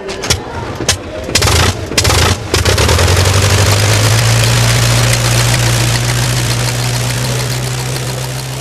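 Old car's engine sputtering with sharp pops, then catching and running steadily as the car pulls away. The low hum fades gradually over the last few seconds.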